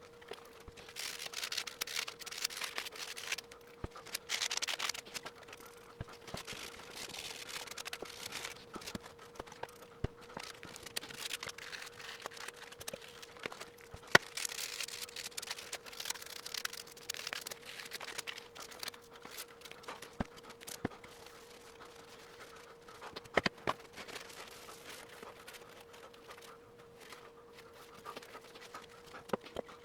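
Intermittent rustling and scraping handling noises with scattered sharp clicks, over a steady hum.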